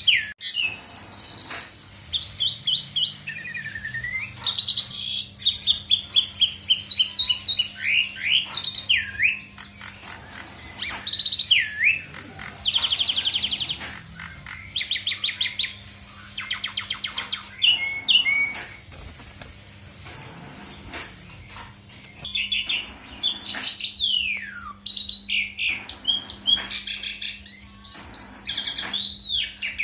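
Asian pied starling (jalak suren) singing at length in a varied stream of whistles, rapid trills and pitch glides, full of mimicked phrases. A steady low hum runs underneath.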